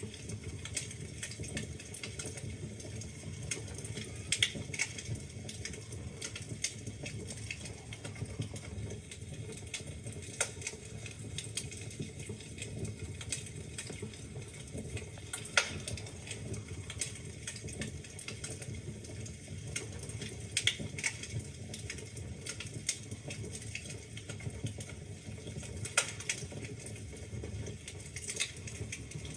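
Wood fire burning in a fireplace: steady low rumble of flames with irregular crackles and occasional louder pops from the logs.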